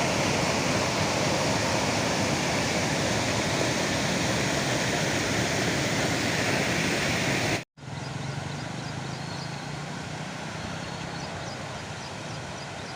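Overflowing lake water rushing in a loud, steady roar that cuts off abruptly about two thirds of the way through. A quieter steady rush follows, with a low hum and faint high chirps.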